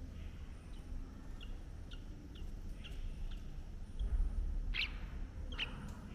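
Birds chirping: a string of short, high chirps, then two louder calls near the end, over a low rumble.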